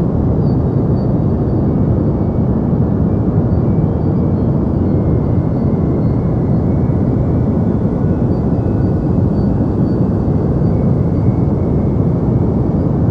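Steady deep white noise: a dense, even hiss weighted heavily toward the low end, dull with very little treble, unchanging throughout.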